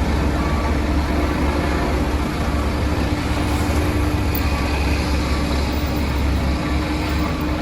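Heavy diesel construction machinery running steadily: a deep, even engine rumble with a steady hum over it.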